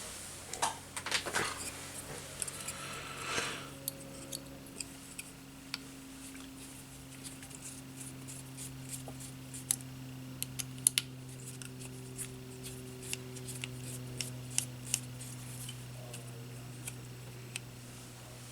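Small tools and drone parts being handled at a workbench: scattered light clicks and ticks, with a few brief scrapes in the first few seconds, over a steady low hum.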